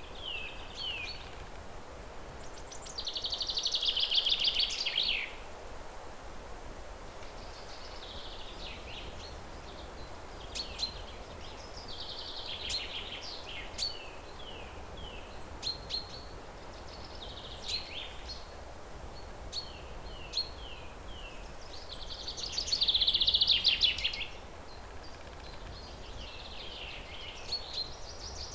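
Songbirds singing: repeated short falling chirps and longer rapid trilled phrases, the two loudest trills about three seconds in and near the end, over a steady low background hum.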